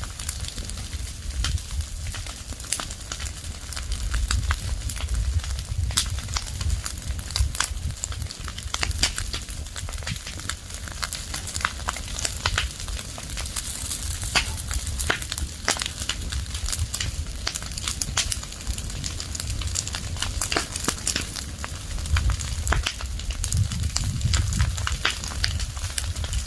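Fire of burning leaves and branches crackling: a dense, irregular run of sharp pops and snaps over a steady low rumble.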